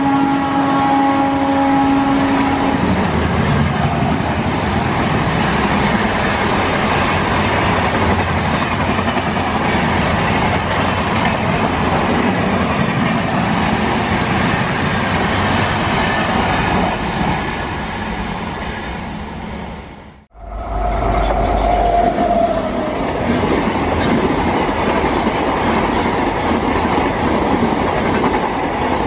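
Electric locomotive horn ending about two seconds in, then the steady rushing clatter of express passenger coaches passing at speed. The sound fades, cuts off abruptly about two-thirds in, and another express train's coaches carry on passing.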